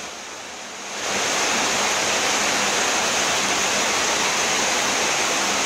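Heavy rain falling, a steady even hiss that is much quieter for the first second and then holds steady.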